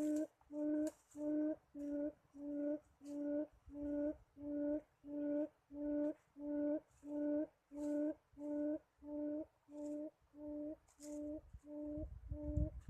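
A bird calling a long, evenly paced series of low hooting notes, about two a second, slowly growing fainter. A low rumble joins near the end.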